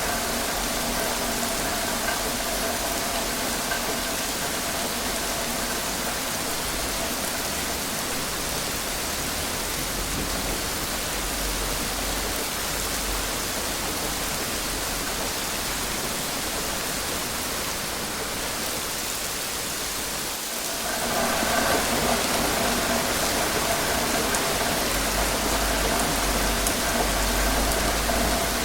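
Steady rain falling, an even hiss with a faint steady hum beneath it. About twenty seconds in, the sound briefly dips, then comes back a little louder with the hum stronger.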